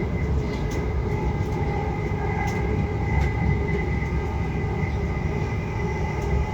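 Passenger train heard from inside the carriage, running with a steady low rumble and a steady high whine over it.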